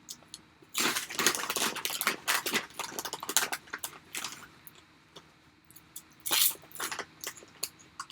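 Crunchy pork rinds being bitten and chewed close to the microphone: a dense run of crisp crackles for about three seconds, then scattered crunches and one louder crackle later on.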